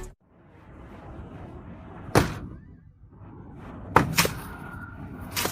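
A few sharp knocks over a faint, steady background noise: one about two seconds in, a pair about four seconds in, and another near the end.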